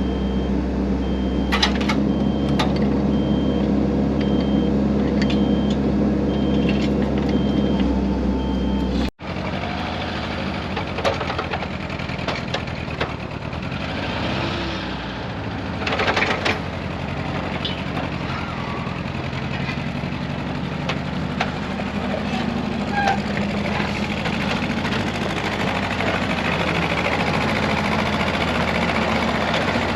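Diesel engine of a tracked excavator running steadily, with a few sharp metal clanks. About nine seconds in, the sound cuts abruptly and a noisier mix of engine and clatter follows.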